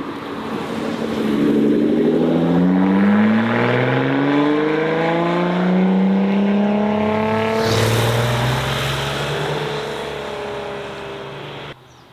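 A car engine accelerating hard, its note climbing steadily for several seconds, with a gear change about eight seconds in. The lower note then fades as the car pulls away, and the sound cuts off abruptly just before the end.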